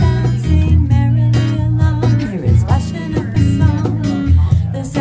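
Bossa nova played live: plucked guitar chords over a bass line, with no words sung.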